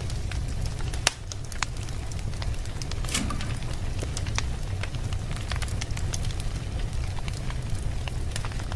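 Wood fire burning in a fireplace: a steady low rumble of flames with scattered sharp crackles and pops, one loud pop about a second in.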